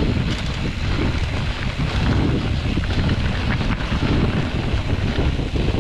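Wind buffeting the microphone of a mountain bike ridden fast down rocky singletrack, with scattered clicks and knocks from the bike over the rough ground.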